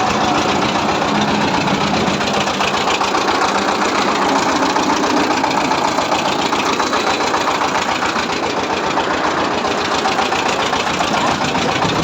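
A truck engine running steadily at idle, with a rapid, even pulse.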